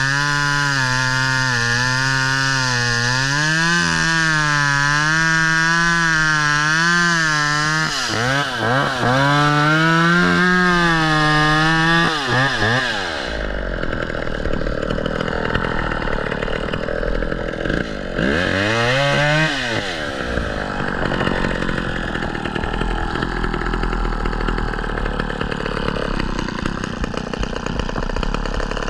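Two-stroke chainsaw cutting through a log at full throttle, its pitch wavering as the chain bogs and recovers under load. About 12 seconds in it drops back to idle, with one short rev up and back down a few seconds later.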